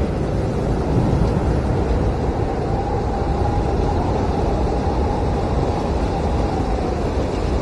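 Blizzard wind blowing hard and steadily with a deep rumble, and a faint howling whistle that comes in about two and a half seconds in and fades near the end.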